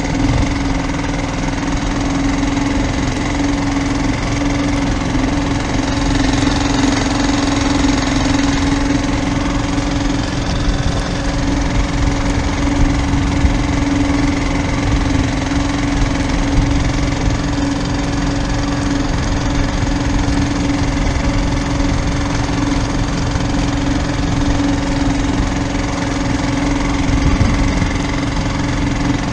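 Boat engine running at a steady speed, a constant even hum over a low rumble.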